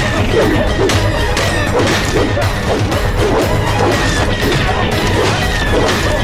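Hand-to-hand fight sound effects: a rapid run of punches, kicks and crashing blows over a driving orchestral action score.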